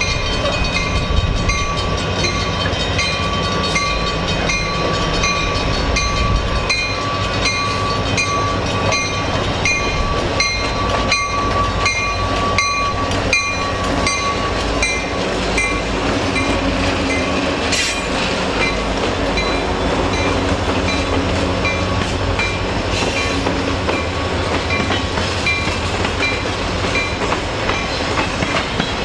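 A freight train passing close by: the diesel engines of two Escanaba & Lake Superior locomotives, SD40-2 No. 503 and No. 501, running as they lead, then the clickety-clack of empty ore gondolas' wheels over the rail joints. A railroad crossing bell rings steadily.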